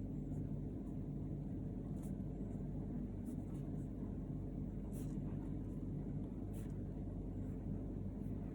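Steady low rumble with a faint hum, broken by a few faint clicks.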